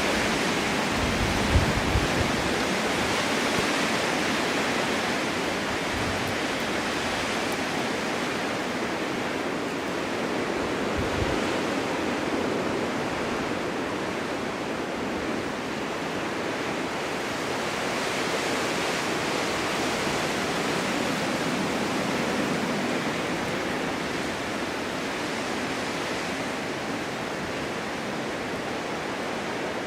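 Strong winter wind of a snowstorm blowing steadily, a full hiss that swells and eases slowly, with a couple of brief low thumps of gusts, one near the start and one about eleven seconds in.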